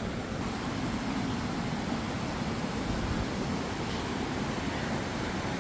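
Fast-flowing river water rushing over a waterfall, a steady even roar.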